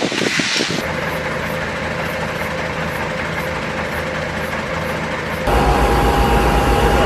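Heavy vehicle engine running steadily. About five and a half seconds in, a louder engine rumble with a steady whine abruptly takes over.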